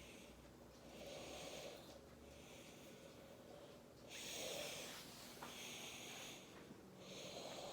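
Faint breathing close to the microphone: three slow breaths, each a soft hiss about three seconds apart.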